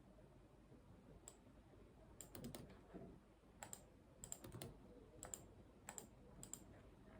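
Faint computer keyboard typing: short bursts of quick keystrokes about two and a half and four and a half seconds in, with single clicks between them.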